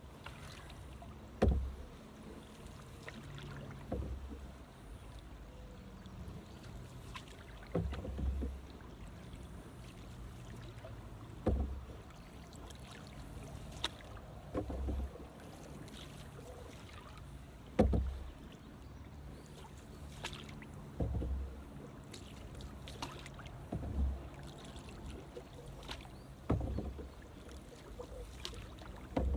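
Canoe paddle strokes in the water, a short splash with a low thump every two to three seconds over a steady low background.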